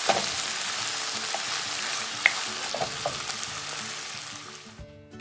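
Pieces of fried catfish in red curry sauce sizzling in a granite-coated wok while a wooden spatula stirs them, with a few light knocks and scrapes of the spatula on the pan. The sizzle fades out near the end.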